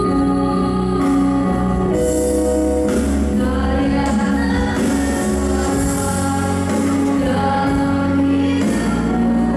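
A woman singing a slow song with long held notes over steady instrumental accompaniment.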